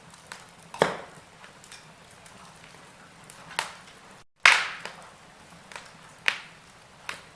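Wood fire crackling in a fireplace: a low, steady background with sharp, irregular pops and snaps, about five strong ones. The loudest comes about four and a half seconds in, straight after a split-second dropout.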